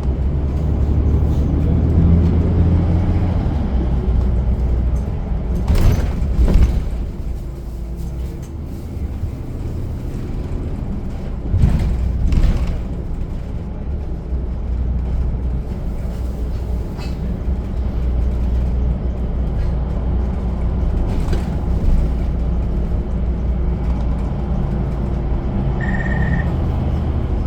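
Inside a moving city bus: the engine runs with a steady low rumble under road noise, and the cabin knocks and rattles over bumps a few times. A short high beep sounds near the end.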